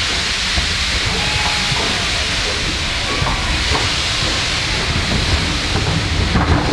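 Steam locomotive hissing steam steadily over a low rumble that grows a little stronger toward the end.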